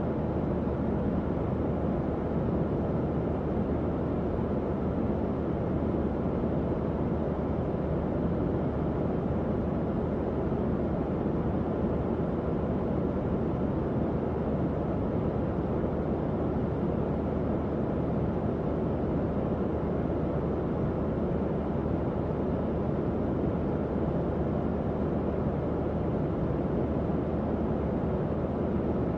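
Tower fan running steadily: an even low airy whoosh with a faint motor hum beneath it.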